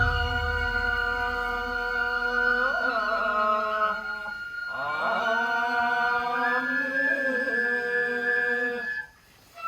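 Nenbutsu chant for a kenbai sword dance, sung in long held notes with a brief break about halfway and a short silence near the end.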